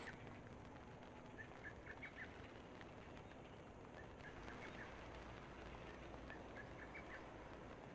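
Faint rainy-day ambience: a low, even hiss with short, high chirps from a small animal in three brief runs, about a second and a half in, near the middle, and again later.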